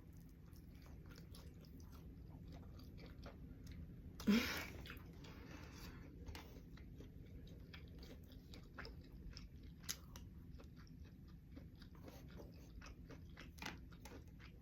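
Close-up chewing of baked chicken wings in gravy: soft wet mouth clicks and smacks throughout, with one louder, brief bite or slurp sound about four seconds in.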